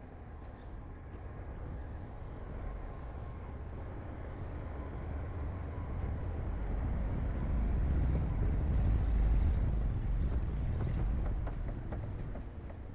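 Heavy diesel construction machinery running with a deep rumble. It grows louder to a peak about two-thirds of the way through, then eases off.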